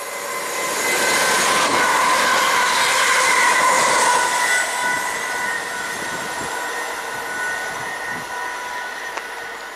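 ScotRail Class 380 electric multiple unit passing non-stop at speed: a rush of wheels on rail and air that builds over the first second, is loudest for a few seconds, then eases off and fades. A steady high whine runs through it.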